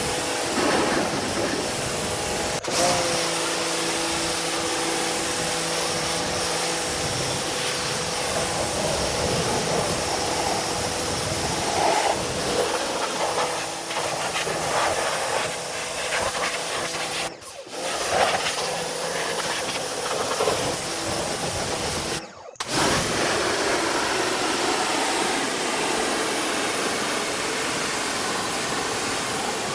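Pressure washer spraying water onto a wheel and tire: a loud, steady hiss of the jet with a machine hum underneath, cut off briefly twice in the second half.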